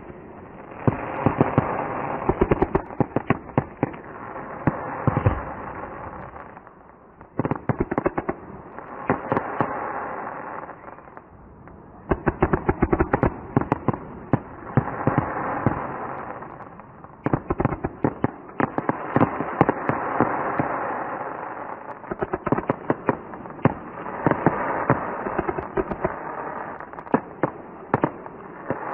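Aerial fireworks bursting and crackling: rapid clusters of sharp pops over a hiss of crackle. They come in waves every four to five seconds, with short lulls between.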